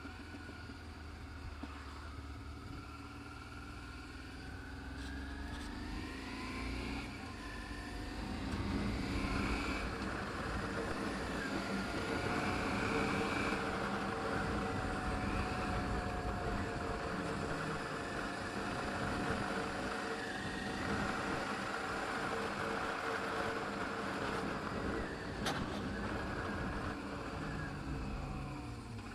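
Adventure motorcycle engine under way, rising in pitch over the first few seconds as it picks up speed, then running louder at a steady pitch.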